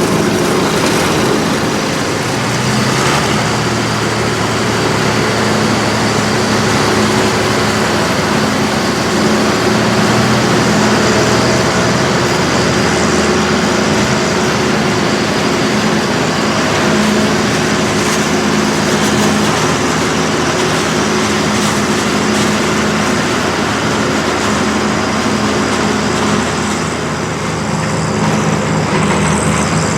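Tractor engine running steadily under load during maize harvesting, with the dense rush of the machinery.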